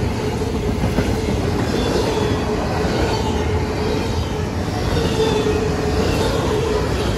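Freight train of intermodal well cars rolling past close by: a steady rumble of wheels on rail with a thin steady tone running through it.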